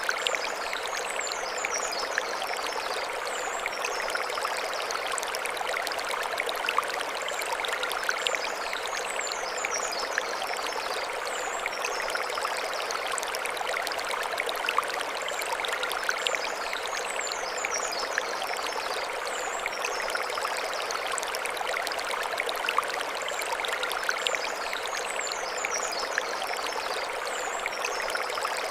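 Mountain stream flowing over stones: a steady rush of water with small splashes throughout. A high chirping phrase recurs about every eight seconds above it.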